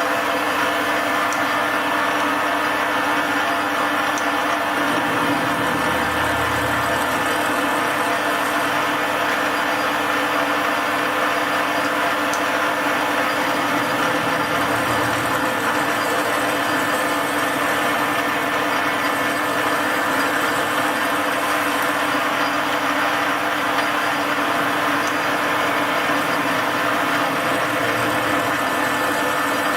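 Metal lathe running steadily with a constant motor hum while a 45-degree taper is turned on the head of a steel screw. A low rumble swells briefly twice.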